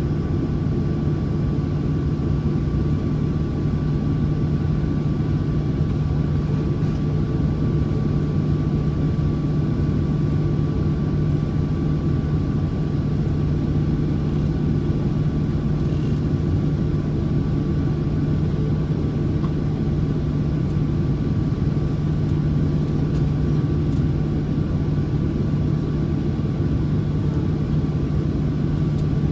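Steady drone inside the cabin of a Boeing 737 waiting on the ground: a low hum with a faint thin whine above it, unchanging throughout.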